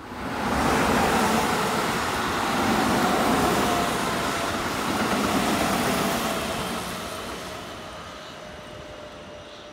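Keihan Electric Railway train passing: rolling noise of wheels on rail rising sharply about half a second in and holding for about six seconds, with a faint falling whine, then fading as the last cars go by.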